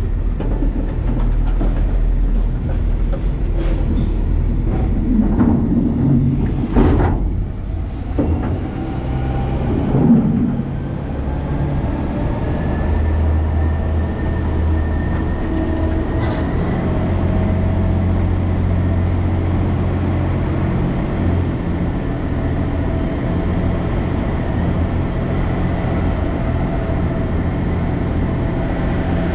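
Side-loader garbage truck's engine and hydraulics heard from inside its hopper: knocks and clattering rumbles through the first ten seconds, then a steady drone with a low hum and a faint whine.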